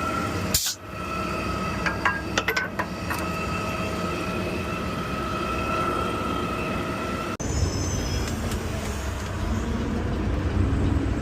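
Garbage truck engine running, heard from the cab, with a steady high-pitched whine and a few clicks over it. About seven seconds in the whine stops abruptly and a deeper, louder engine rumble takes over.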